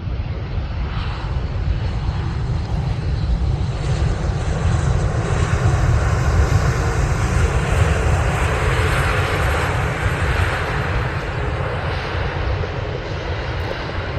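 Airbus A350 jet airliner passing close on landing approach, its Rolls-Royce Trent XWB engines giving a steady jet rumble that swells to a peak about two-thirds of the way through and then eases off.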